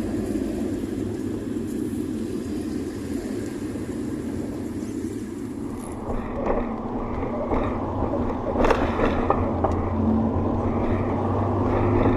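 VW Voyage's AP 1.6 four-cylinder engine running, with a steady low rumble. About halfway through the sound changes and a few knocks come through. Near the end a steadier, slightly louder engine note sets in.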